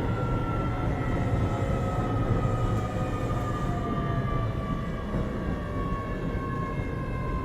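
Keio 7000 series electric train running, a low rumble of wheels on rail under a whine from the traction motors that slowly falls in pitch as the train slows.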